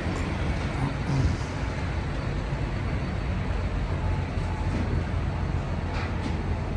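A vehicle engine idling steadily, a continuous low hum with no change in speed.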